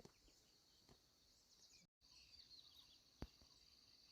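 Faint outdoor insect chorus: crickets trilling steadily in a high pulsing buzz. The sound cuts out completely for an instant about two seconds in, and there is a single sharp click a little after three seconds.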